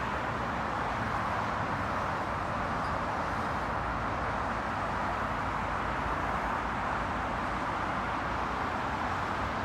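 Steady road traffic noise, an even hiss of cars passing on the road.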